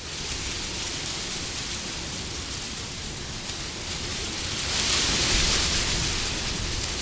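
Steady rushing wind that swells into a louder gust about five seconds in, then eases off.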